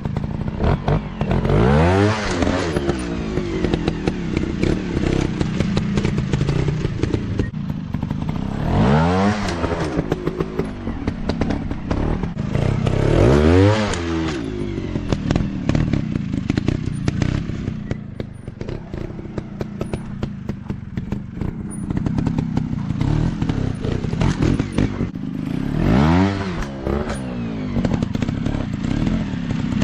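Off-road dirt bike engines running, revving up and dropping back four times, with clattering and knocking throughout.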